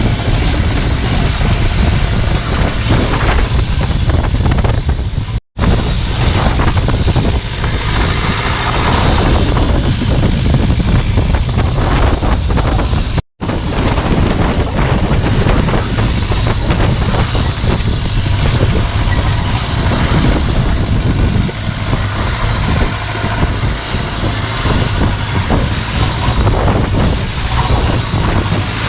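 Longtail boat's engine running steadily under way, mixed with wind buffeting the microphone. The sound cuts out briefly twice.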